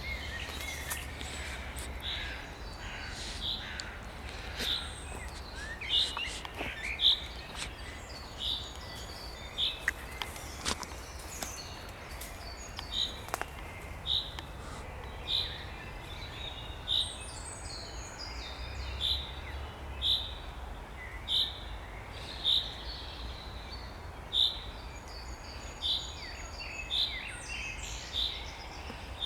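Spring birdsong: one bird repeats a short, high note about once a second, with fainter calls of other birds in between.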